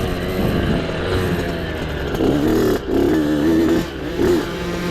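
Small off-road mini bike engine running and revving, its pitch rising and falling with the throttle.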